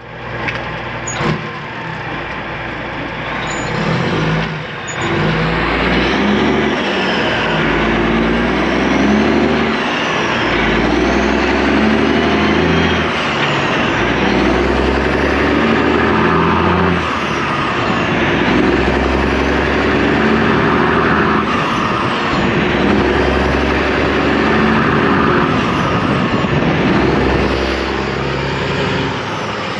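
Detroit Diesel engine of a Kenworth truck, heard from outside the cab window, pulling hard. Its pitch climbs and drops back several times as it goes up through the gears.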